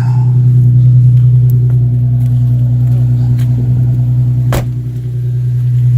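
Infiniti Q50's 3.7-litre V6 with a rear muffler delete idling, a steady low exhaust drone. A single sharp click comes a little past halfway.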